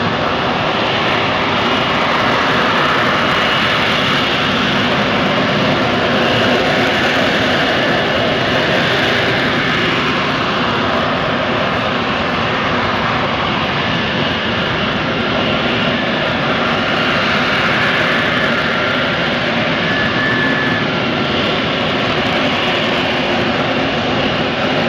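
Lockheed Martin F-35B's Pratt & Whitney F135 jet engine running loud and steady, a continuous rush of jet noise with faint whining tones, swelling and easing slowly without any sudden change.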